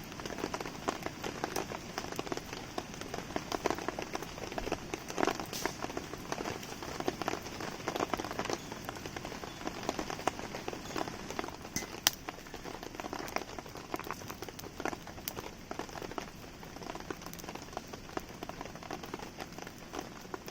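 Steady rain falling, mixed with the pops and crackles of a wood campfire, with a sharper pop about twelve seconds in.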